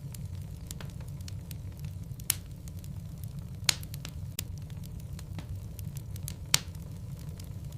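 Wood logs burning in a fireplace: a steady low rumble of flame with frequent small crackles and three louder pops spread through.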